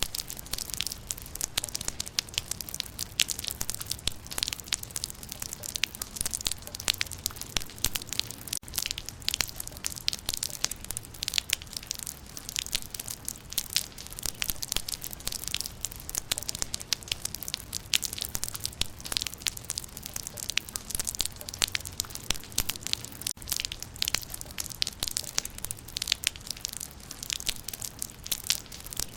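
Rain falling on leaves: a dense, irregular patter of drops tapping on foliage, steady throughout.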